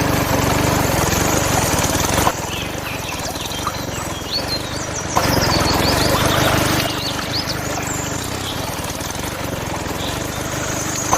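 A small motor running steadily with a low buzz, while birds chirp. The sound changes abruptly about two, five and seven seconds in.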